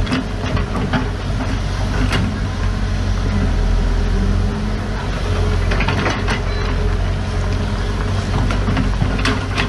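Heavy diesel earthmoving machinery running steadily, a deep engine drone, with occasional sharp metallic clanks and knocks about two seconds in, around six seconds in and again near the end.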